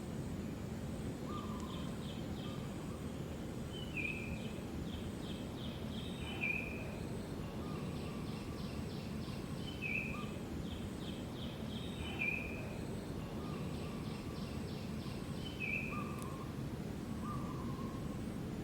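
A bird calling over steady outdoor background noise: a short note followed by a quick trill, repeated every two to three seconds.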